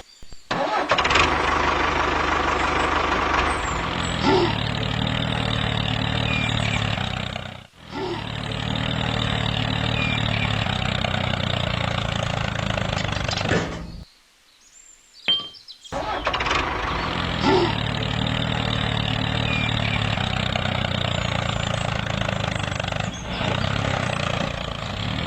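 A small motor running steadily, cutting out briefly about eight seconds in and again for about two seconds near the middle.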